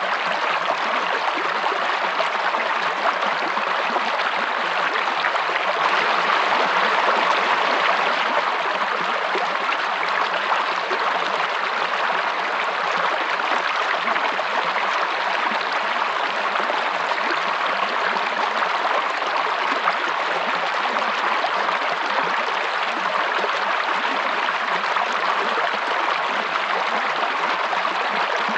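Running water of a stream, a steady rushing and babbling that swells slightly about six to eight seconds in.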